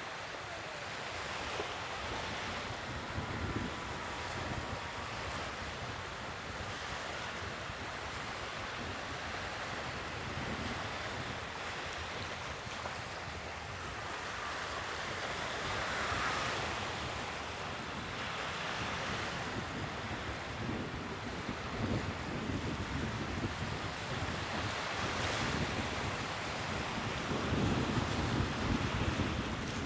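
Sea waves breaking and washing ashore in slow swells, the loudest near the end, with wind buffeting the microphone.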